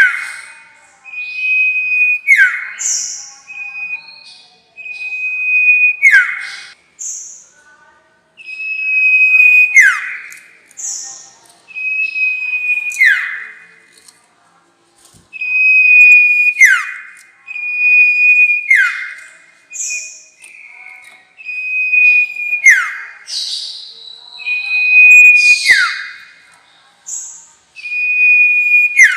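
Sirtu (a small Indonesian songbird) calling over and over, played as a lure call. Each phrase is a held high whistle that ends in a quick falling sweep, with short high chirps in between, about one phrase every two seconds.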